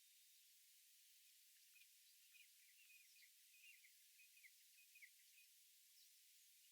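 Faint, quick bird chirps, several short notes in quick runs from about two seconds in until about five and a half seconds, over a steady high hiss.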